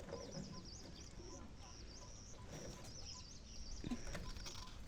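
A bird giving short, high chirps over and over, about two or three a second, faint.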